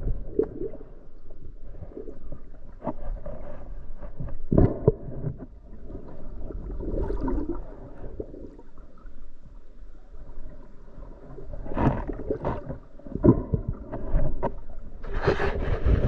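Muffled underwater sound picked up through a camera housing: water swishing and gurgling over a low rumble, with a few irregular knocks and bumps.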